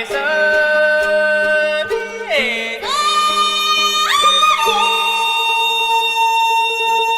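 Yunnan Haicai-qiang folk singing: long, high held notes that glide up into a new pitch twice and then settle on a lower held note, over low sustained accompaniment tones that drop out about two-thirds of the way through.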